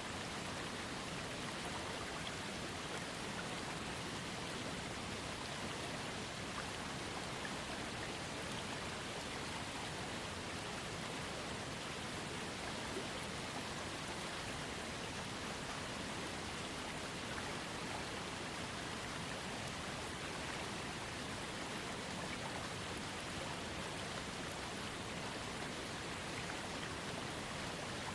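Small waterfall on a trickling creek, water falling and splashing in a steady, even rush with no breaks.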